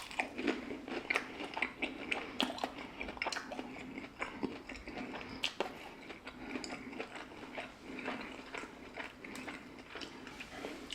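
Close-miked chewing of a sauce-dipped McDonald's chicken nugget, with many small irregular mouth clicks.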